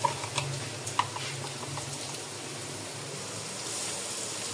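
Sliced bitter gourd and onions sizzling gently in oil in a pot, a steady hiss that grows a little brighter near the end. A few light clicks of a spoon against a plastic salt container come in the first second or so.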